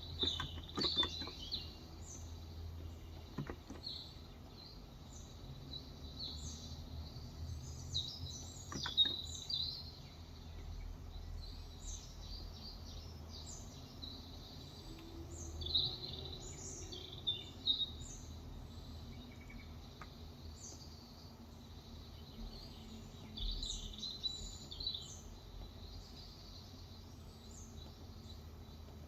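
Small birds chirping and twittering outside, short high chirps coming in clusters throughout over a low steady background hum. A few isolated keyboard keystrokes in the first several seconds.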